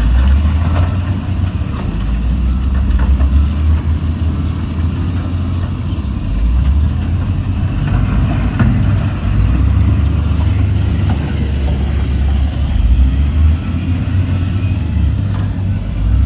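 Heavy diesel construction machinery running with a steady low engine rumble that swells and eases a little.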